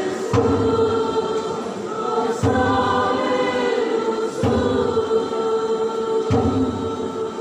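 Church choir singing a hymn in sustained, held chords, with a deep accented beat about every two seconds marking each new phrase.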